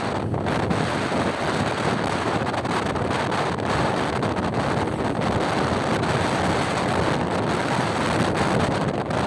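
Steady wind noise buffeting the microphone on a moving motorcycle, an even rush with no clear engine note standing out.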